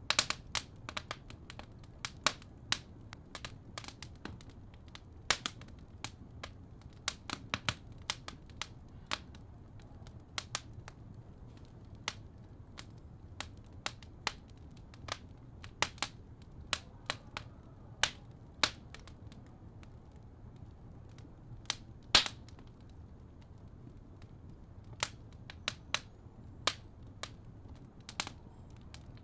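Wood fire crackling: irregular sharp pops and snaps over a low steady rumble, with one louder snap about three-quarters of the way through.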